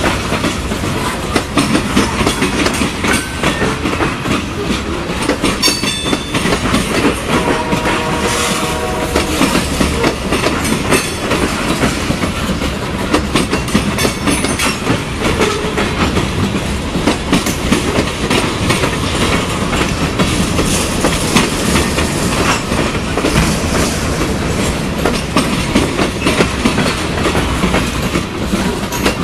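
Freight train of covered hopper cars rolling past close by: a steady rumble with the wheels clacking over rail joints. A brief pitched tone sounds about eight seconds in.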